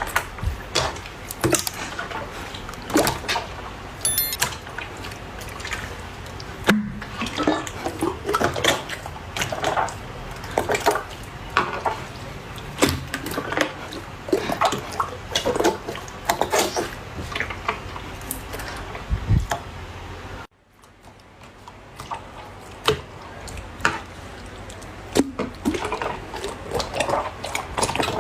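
Slime being squeezed, stretched and poked by hand, making a dense run of irregular wet clicks and pops. About 20 seconds in the sound cuts to quiet for a moment, then the popping slowly builds again.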